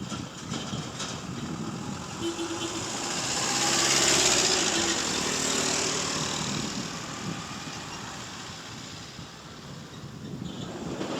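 A motor vehicle passing close by, its engine and road noise swelling to a peak about four seconds in, then slowly fading away.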